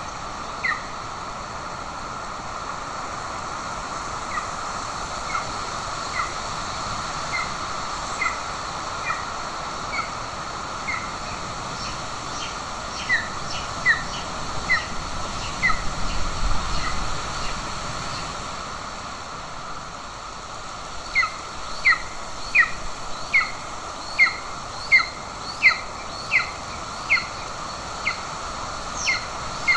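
Golden eagle nestling calling a long series of short, high, down-slurred chirps, the begging call of an eaglet wanting food. The calls are spaced out at first and come closer and louder in the last third, about one a second or faster.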